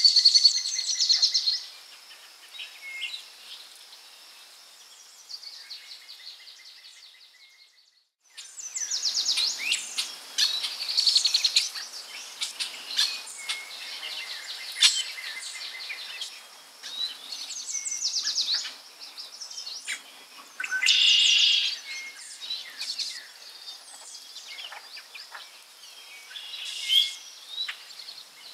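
Forest birdsong: several birds chirping and trilling in quick, high phrases over a faint outdoor hiss. The sound drops out almost completely for a moment about eight seconds in, then the birdsong resumes.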